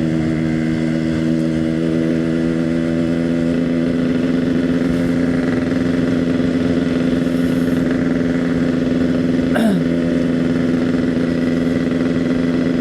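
Yamaha RX-King's single-cylinder two-stroke engine running steadily under way, its pitch held level. A brief falling tone sweeps down about nine and a half seconds in.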